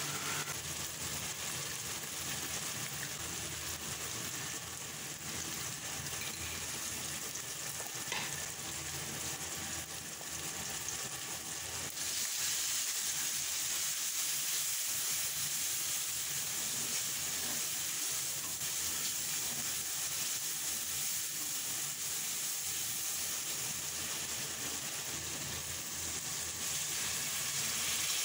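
Onions, tomatoes and minced meat frying in hot oil in a metal karahi, sizzling steadily as a wooden spoon stirs them. The sizzle grows louder about twelve seconds in.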